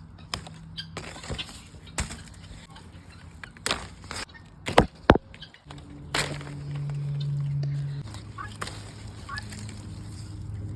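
Guinea fowl calling around the garden, mixed with irregular sharp clicks and crackles. There are two loud snaps about five seconds in.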